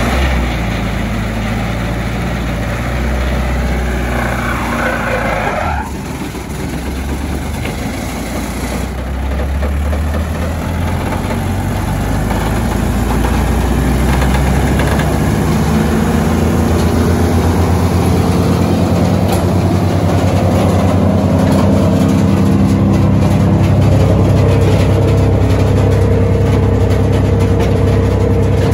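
Deutz diesel engine of a Vermeer BC1000 wood chipper running. About six seconds in it drops back briefly, then speeds up gradually over several seconds and holds a steady higher speed. A short rushing noise comes over it a few seconds before the drop.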